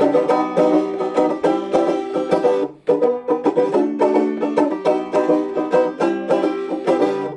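Live bluegrass-country band music with a fast-picked banjo leading, played instrumentally between sung verses; the sound drops out briefly a little under three seconds in.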